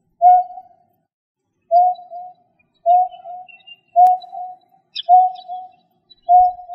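A bird calling: a low, clear note repeated about once a second, each note trailing off into a softer second part, with faint high chirps from other birds in between.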